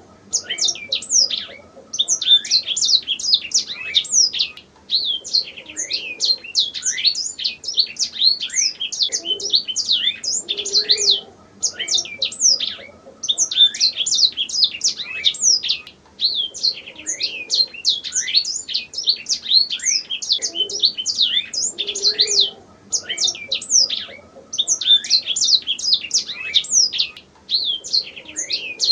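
Domestic canary singing: long phrases of rapid high chirps and trills, broken by brief pauses every few seconds.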